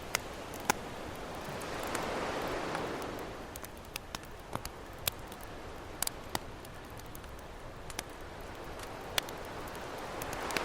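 Campfire crackling with scattered sharp pops over ocean waves washing ashore: one wave swells and fades about two to three seconds in, and another builds near the end.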